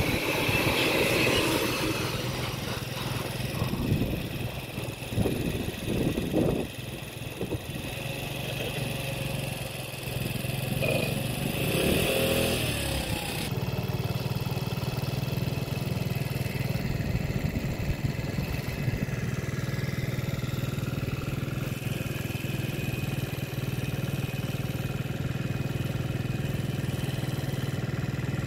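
Freight wagons rolling past with uneven wheel clatter that dies down as the last wagons go by. After a cut about halfway through, a steady low hum and rumble as an electric freight locomotive approaches with its train.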